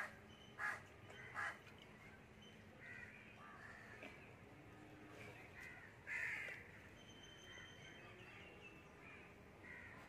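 Bird calls: three short calls in the first second and a half, a longer, louder call about six seconds in, and fainter calls between.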